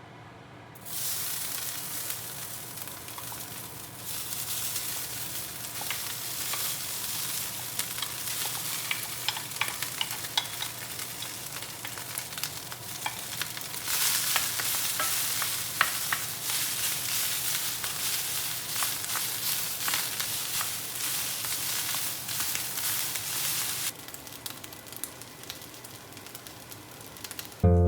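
Fried rice sizzling in a hot pan, with small clicks and scrapes of a spatula as it is stirred. The sizzle starts about a second in, grows louder, and drops back sharply near the end.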